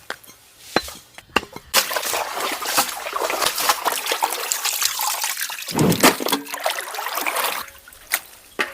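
Water pouring and splashing for several seconds, with small crackling clicks and a dull thud about six seconds in.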